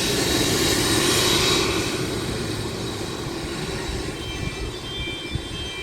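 Jet aircraft engines running close by: a steady rushing noise with a thin high whine, loudest about a second in and then slowly fading.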